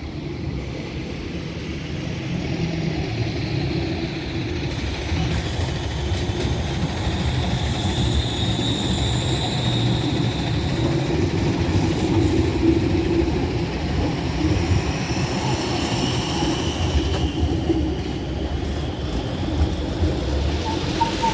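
Tram running along its rails: a steady rumble of wheels with high whining tones that rise and fall midway, growing louder over the first half.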